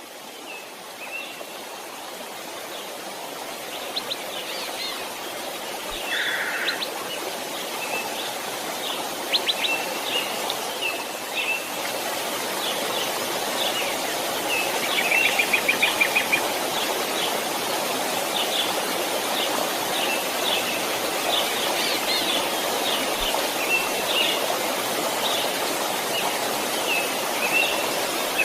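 Steady rushing of a flowing stream, fading in over the first several seconds, with small birds chirping and calling throughout, including a quick trill about halfway through.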